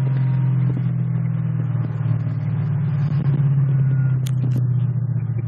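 Dodge Challenger's 426 Hemi V8 running under light load as the car cruises, an even deep rumble heard from inside the cabin.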